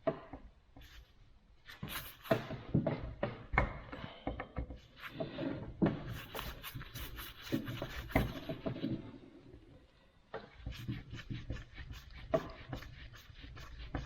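Scattered clicks, knocks and scrapes of hand tools on a Record No. 6 bench vise as the screws holding its jaw plates are worked loose. Near the end comes a run of quick, even ticks, about four or five a second.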